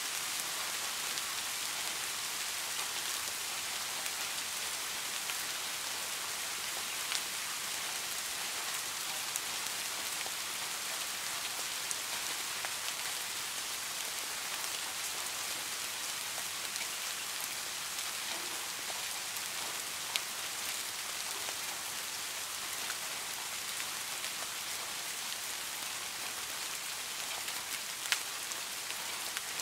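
Steady rain falling, an even hiss with a few sharper ticks now and then.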